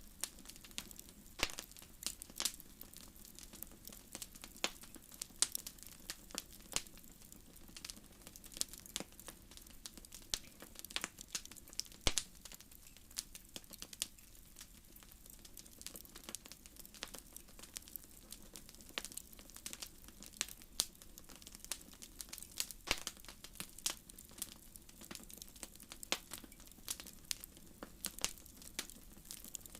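Wood fire crackling: irregular sharp pops and snaps, several a second at uneven spacing, over a faint steady background.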